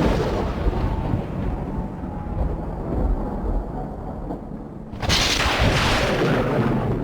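Thunder sound effect: a loud crack rolling off into a low rumble, then a second sudden thunderclap about five seconds in that fades away.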